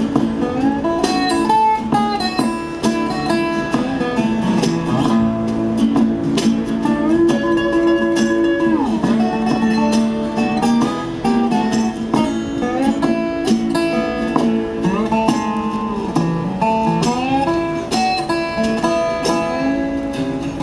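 Instrumental break in a live acoustic country song: acoustic guitar playing under a lead melody that slides between notes.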